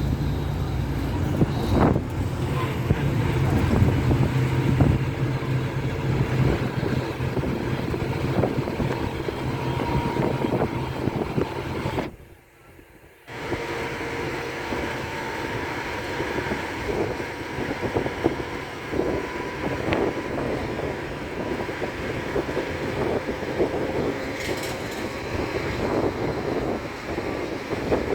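Steady rumbling noise of a moving vehicle, with a few faint steady tones over it; it drops out briefly about twelve seconds in.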